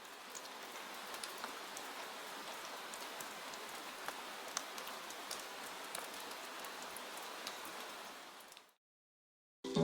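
Soft, steady patter and hiss of water drops with scattered small ticks, fading out near the end. A plucked-string music track starts right at the close.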